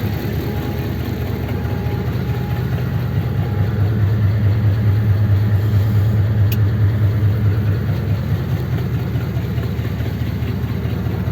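Engine of a 1932 sedan hot rod idling steadily, its low hum swelling a little midway, with a faint click about six seconds in.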